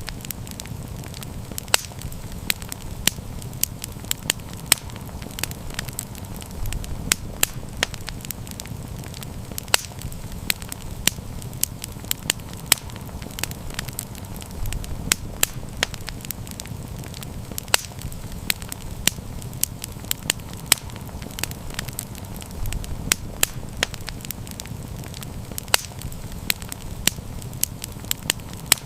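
Wood campfire burning, with frequent sharp irregular crackles and pops over a steady low rumble of the flames.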